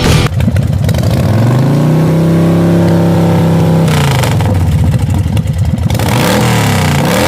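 Royal Enfield Bullet 500's single-cylinder engine revving: the pitch climbs, holds steady for about two seconds, then drops, with a few shorter rises and falls of revs near the end.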